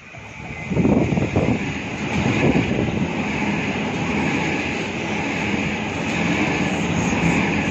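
Double-deck electric suburban train running in alongside the platform. Its noise builds over the first second as it draws near, then holds as a steady rumble of wheels on rails.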